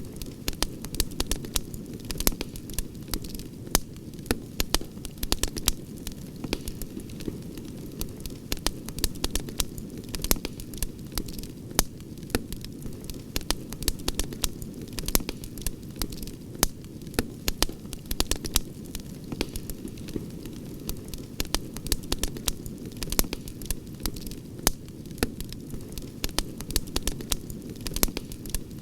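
Campfire crackling: many sharp pops and snaps, several a second, over a steady low rush of the burning fire.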